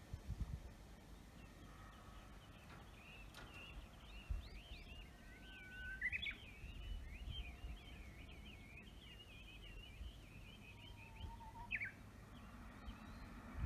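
Wild birdsong: a long, continuous run of rapid warbling notes, with a few short, sharp downward calls, over a faint low rumble of outdoor background noise.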